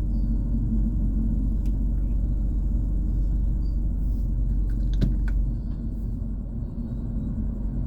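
Low, steady rumble of a long freight train rolling past a railroad crossing, heard from inside a car. It eases off a little about five and a half seconds in, with a couple of faint clicks just before.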